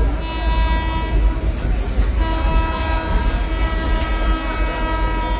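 Train horn sounding in long, steady blasts. It breaks off about a second in and sounds again about a second later, over a constant low rumble.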